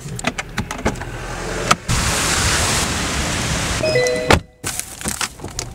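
Steady hiss of heavy rain around a car, with scattered clicks and knocks before it. About four seconds in, a brief electronic tone and a loud knock, then the sound cuts off suddenly.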